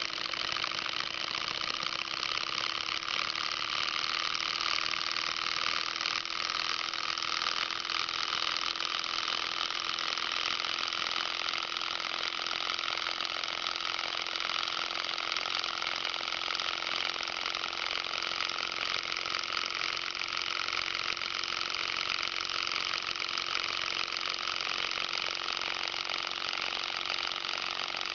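Small PM Research model Stirling engine running at a steady speed: an even mechanical whir, with a faint steady hum underneath.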